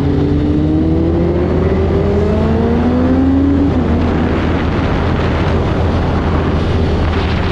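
Kawasaki H2's supercharged inline-four engine accelerating hard under throttle, its pitch climbing steadily, dropping at a gear change about three and a half seconds in, then climbing again, with wind rush building as speed rises.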